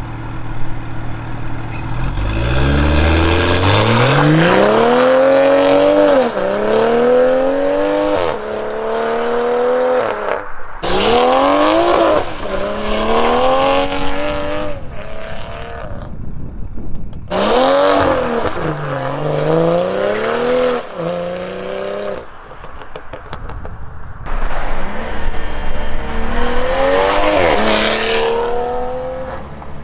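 2020 BMW M340i's B58 turbocharged 3.0-litre inline-six accelerating hard, its note climbing steadily and then dropping sharply at each upshift, in several pulls with short breaks between.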